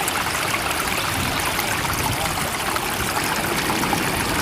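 Steady running water, a continuous rushing with trickling and bubbling, with no rise and fall of waves.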